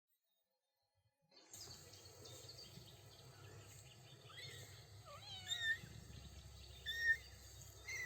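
Small kittens meowing, several short high-pitched calls that bend up and down, over steady low background noise. The sound cuts in after about a second and a half of silence.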